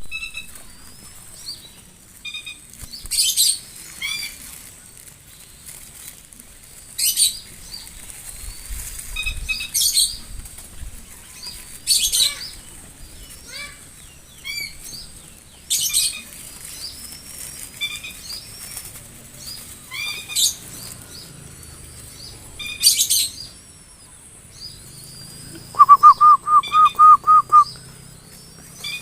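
Birds chirping throughout, with loud, harsh, noisy bursts every few seconds. Near the end comes a quick run of about eight pulsed notes, the loudest sound here.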